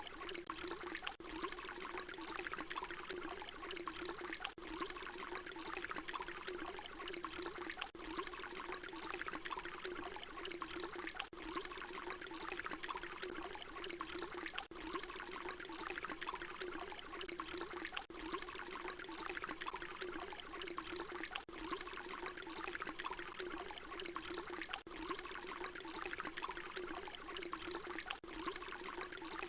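Water pouring in a steady stream, a short recording looped so that it repeats about every three and a half seconds, with a brief dip in level at each join.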